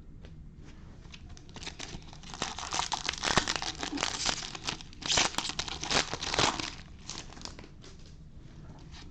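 A foil trading-card pack wrapper being torn open and crinkled by hand, a few seconds of crackly tearing with the loudest rips near the middle, between quieter handling.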